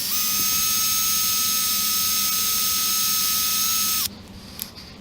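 Small high-speed electric rotary tool running with a steady high-pitched whine, then switched off sharply about four seconds in, used to clean carbon off engine valves.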